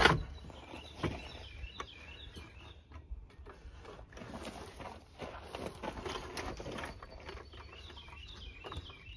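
Small birds chirping in the background. A single sharp knock comes right at the start, and a few light clicks and rustles follow.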